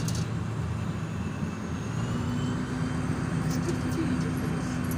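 A city bus's engine running with road noise, heard from inside the cabin while the bus is moving. Its low hum rises slightly about two seconds in, with a few light rattles.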